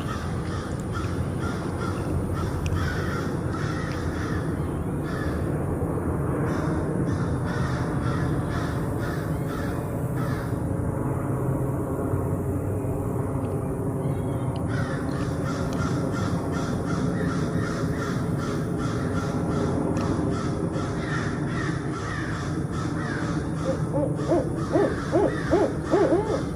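Barred owls calling: a continuous run of hoots and caw-like calls, with a burst of louder, evenly spaced hoots near the end.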